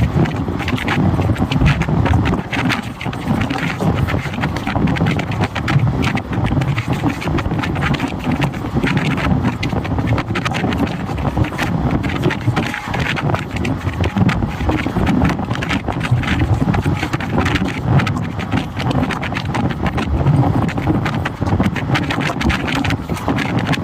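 Indian Railways train running on the track: a steady loud rumble with a dense rattling clatter of wheels and carriage.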